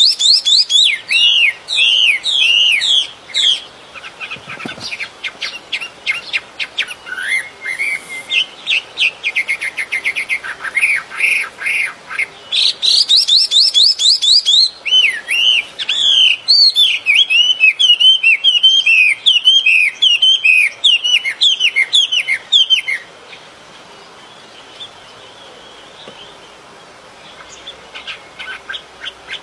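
A songbird singing long, loud bouts of rapid chirps and sweeping whistled notes. It falls silent for a few seconds near the end, then starts again.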